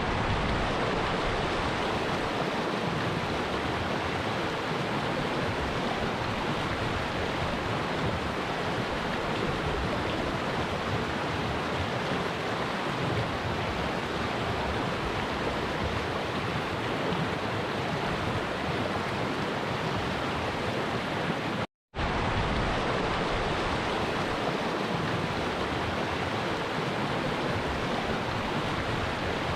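Flowing stream of water rushing steadily, an even wash of water noise. It cuts out for a split second about three-quarters of the way through, then carries on unchanged.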